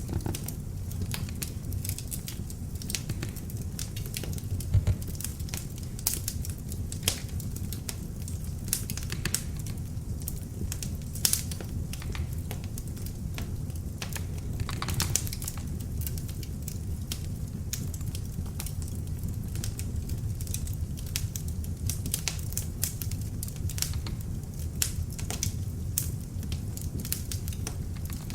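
Beech-log fire crackling in an open fireplace: irregular sharp pops and snaps over a steady low rumble of burning, with a few louder pops now and then.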